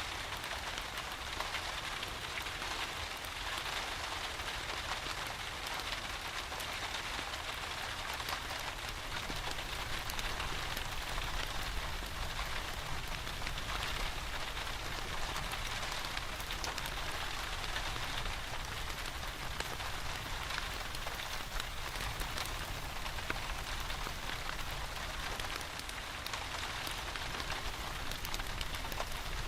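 Steady rain, an even hiss flecked with fine droplet ticks, mixed with the soft crackle of a fireplace and a steady low rumble underneath.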